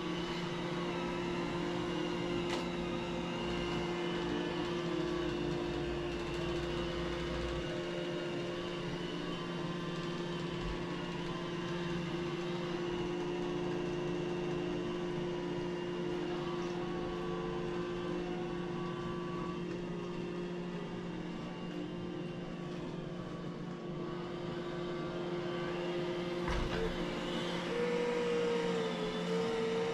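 Vacuum cleaner running steadily, a constant motor hum.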